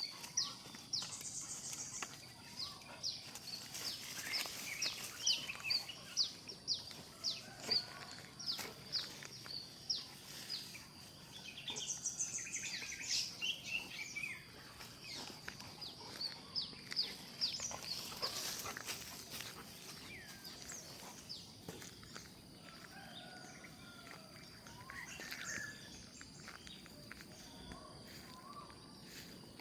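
Small birds chirping: many quick, high chirps in busy runs, thinning out after about twenty seconds, over a faint steady high-pitched insect drone.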